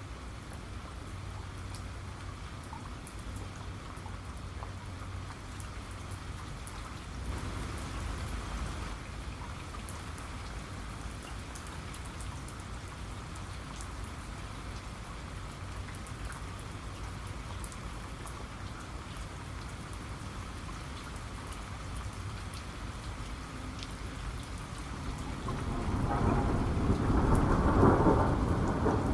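Steady heavy rain with fine scattered drop ticks, and thunder rumbling: a low roll about seven seconds in, then a louder, longer rumble that builds near the end.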